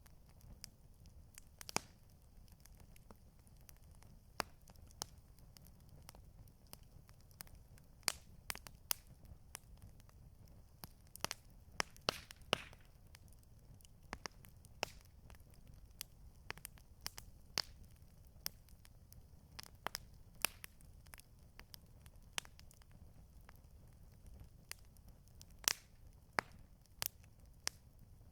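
Wood campfire crackling: irregular sharp pops and snaps, sometimes several close together, over a low steady rumble.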